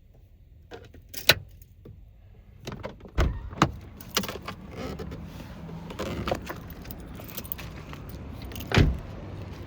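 Keys jangling amid a series of sharp clicks and knocks from handling inside a car, ending with a heavy thump near the end; a steady hiss builds underneath from about halfway through.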